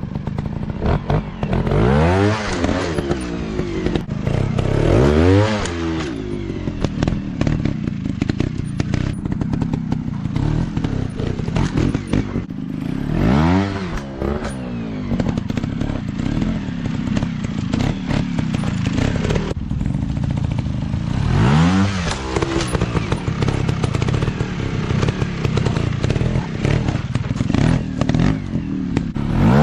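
Small-displacement dirt bike engines running, the engine pitch climbing and dropping back several times as the throttle is worked, with some clattering and knocking over rough ground.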